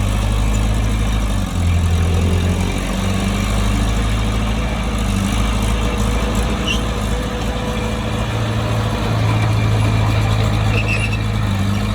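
Bulldozer's diesel engine running steadily, its low drone shifting pitch slightly a couple of times as the load changes.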